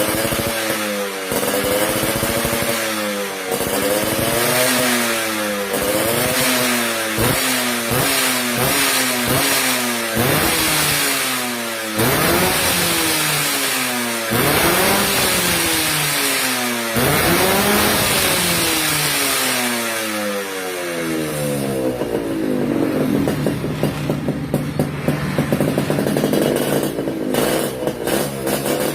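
Two-stroke motorcycle engine through a racing exhaust, revved again and again in quick throttle blips, each rising and falling in pitch. About two-thirds of the way through it settles into a steady idle.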